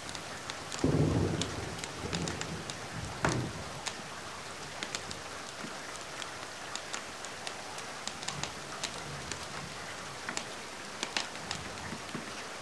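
Steady rain with scattered sharp crackles of a wood fire. A low rumble of thunder comes about a second in, and a sharp crack follows about three seconds in.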